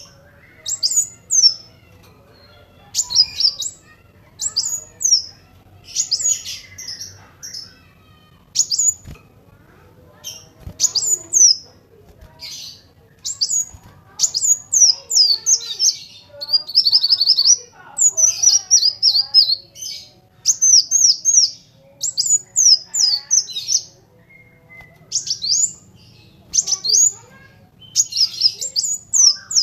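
Kolibri wulung sunbird singing: short bursts of thin, high, fast-sweeping chirps every second or two, with a quick rattling run of repeated notes about halfway through. A faint low hum lies beneath.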